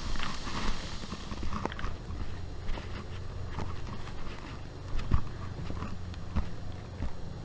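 Hiker's footsteps on a trail picked up by a camera worn on a chest pocket: irregular thumps and clicks about once a second over low rumbling handling noise.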